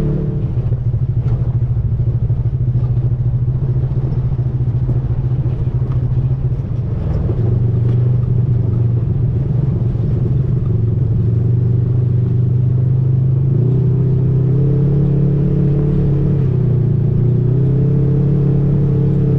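Off-road vehicle engine running while driving, its pitch stepping down and back up a few times as the throttle changes.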